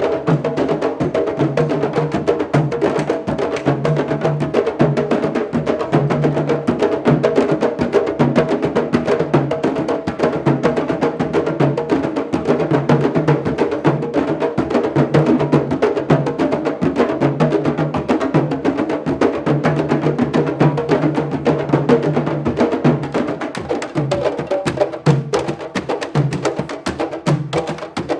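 Candombe drum ensemble (chico, repique and piano drums) playing a dense, continuous rhythm of hand and stick strokes, with clicking strikes on the wooden drum shells.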